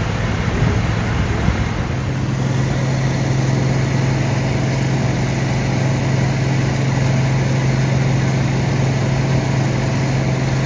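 Large diesel engine running steadily under load, typical of fire apparatus or dewatering pumps working, over a wide even noise; a steady low hum sets in about two seconds in and holds.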